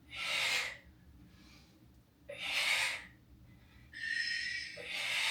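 A woman's heavy breathing through three push-ups: three loud breaths about two seconds apart, the last one longer.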